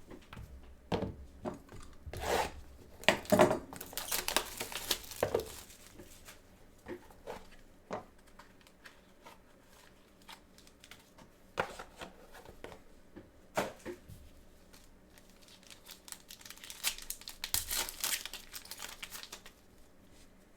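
Trading-card packaging being torn open and crinkled, in two spells of crackling with light clicks of cards being handled between them.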